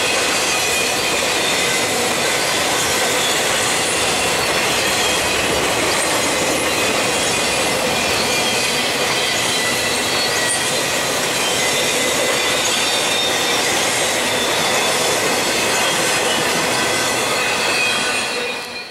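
Intermodal freight train cars rolling past on steel rails, the wheels squealing in several steady high tones over the rumble of the train. The sound drops away sharply near the end.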